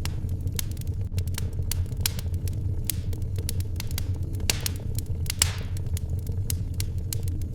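Wood fire crackling in a fireplace: irregular sharp pops and snaps over a steady low rumble. Two louder pops come about four and a half and five and a half seconds in, each followed by a brief hiss.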